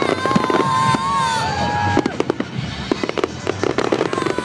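Fireworks display: aerial shells bursting in a dense run of sharp bangs and crackles, thickest in the second half. Held tones of music play under them for about the first two seconds.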